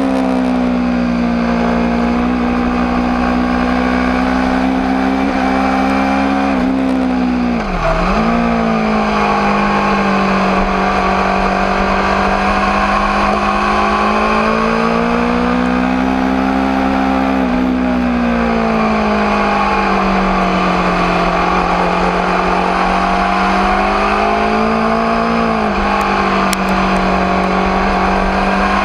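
Aprilia RSV4 APRC's V4 engine running continuously, its pitch rising and falling slowly every several seconds, with one sharp drop and quick climb back about eight seconds in.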